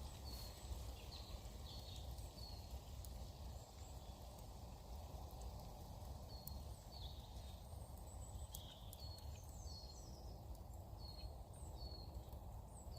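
Small woodland birds chirping: short high calls, some falling in pitch, repeated every second or so over a faint low rumble.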